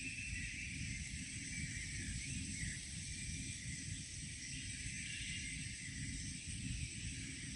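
Faint birdsong, a few distant chirps and short warbles, over a steady low rumble and a constant high hiss.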